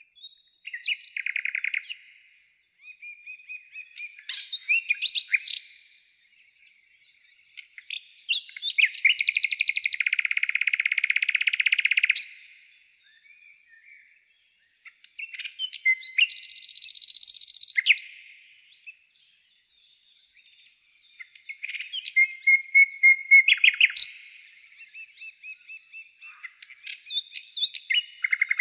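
Birdsong: several small birds chirping and trilling in turn, with a few long buzzy trills that last one to two seconds.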